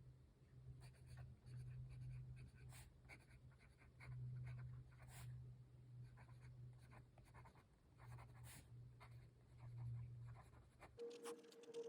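Faint scratching of a fountain pen nib writing on paper in short strokes. About a second before the end the writing stops and a steady ringing tone comes in.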